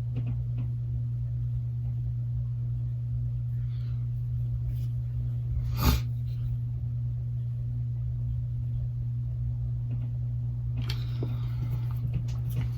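A steady low hum, with one sharp click about six seconds in and a few faint small handling sounds near the end.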